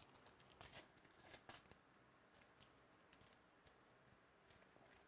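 Faint rustling and crinkling of trading cards and pack wrappers being handled: a cluster of short scraping strokes in the first two seconds, then scattered soft ticks.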